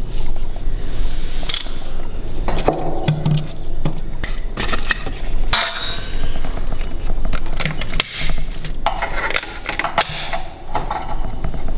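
Irregular knocks and clinks of hard objects being handled, such as dishes and cutlery.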